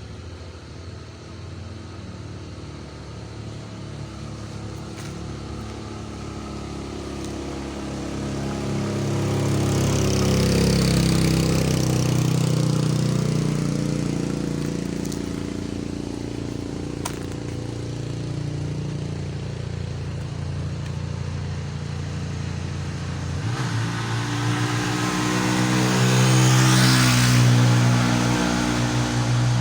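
Engines of passing vehicles labouring up a steep hill. The engine note swells as one vehicle comes close about ten seconds in. A second, louder one passes near the end, its pitch stepping as it pulls.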